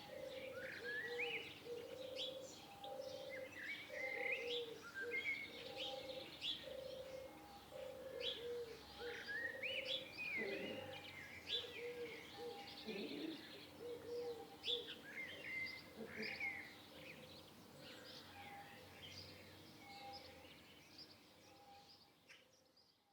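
Several songbirds chirping and singing in short, quick notes, over a lower call that repeats at an even pace. It all fades out near the end.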